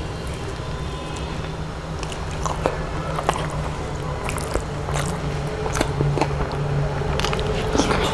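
A person chewing and eating rice by hand, mouth full, with many scattered sharp mouth clicks over a steady low hum.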